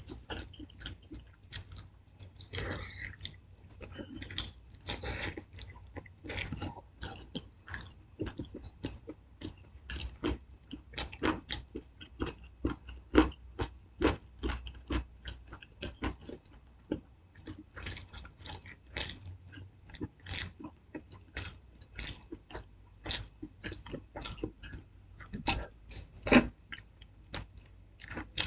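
A person chewing and biting food close to the microphone: a steady, irregular run of short mouth clicks and smacks.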